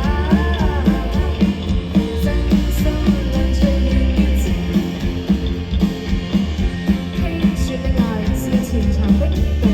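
Live rock band playing an instrumental passage with a steady drum beat, a wavering melody line standing out in about the first second.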